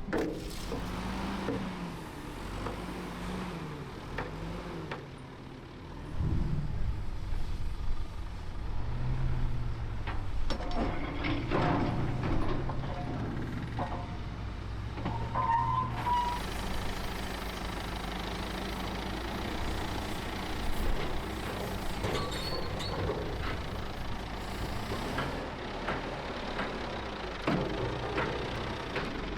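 Heavy vehicle or machinery engines running, their pitch rising and falling, with scattered knocks and a short beep about fifteen seconds in.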